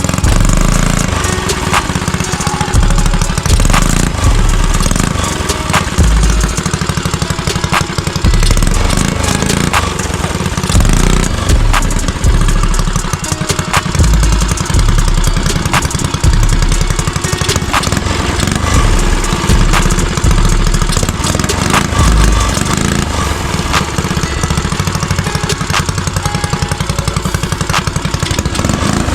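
Custom Motovox mini bike's small engine running, its loudness swelling and easing every couple of seconds.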